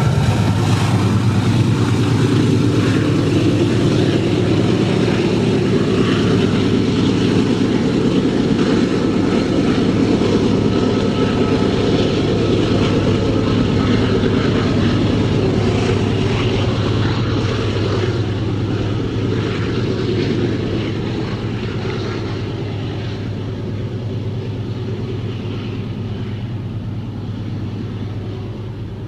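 Loaded freight train rolling past at speed: a steady, heavy rumble of wagon wheels on the rails, slowly fading over the last ten seconds.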